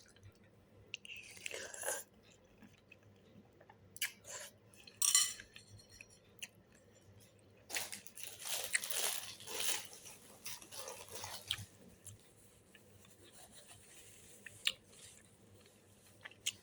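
A person eating beef noodle soup close to the microphone: chewing sounds in scattered bursts, loudest and longest from about eight to eleven seconds in, with a few sharp clicks.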